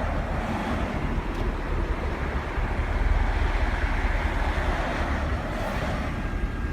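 Police patrol car's engine running with a deep steady rumble under rushing wind and road noise.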